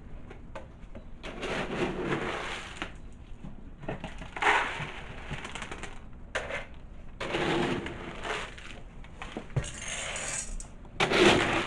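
Dry cat kibble being poured into bowls in several short pours, the pellets rattling and clattering.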